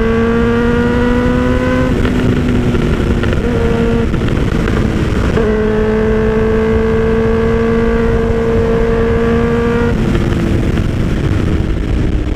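Suzuki GSX-R1000 inline-four engine pulling at speed on the road, its note rising slowly and steadily, dropping away for a few seconds in the middle, then climbing slowly again. Heavy wind rush on the rider's microphone.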